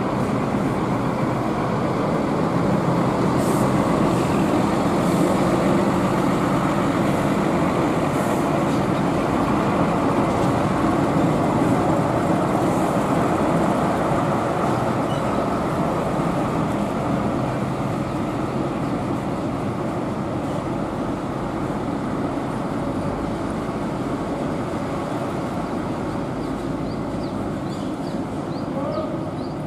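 Bus engine running close by: a steady rumble under a wash of noise, loudest in the first half and slowly easing off.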